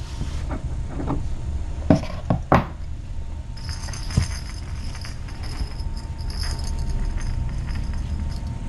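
A few sharp knocks and clicks, bunched about two seconds in with one more a couple of seconds later, over a steady low hum.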